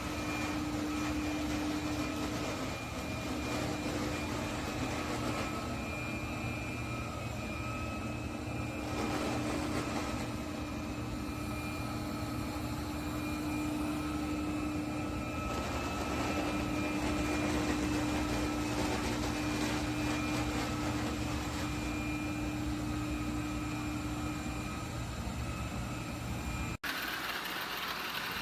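eufy L60 robot vacuum running, a steady motor drone with a held hum. It cuts off abruptly near the end, and a different sound follows.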